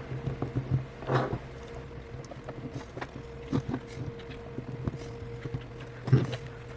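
Small clicks, taps and scrapes of hand tools working against the glued-in battery of an opened iPhone 8, with two slightly louder scrapes about a second in and near the end, over a steady low electrical hum.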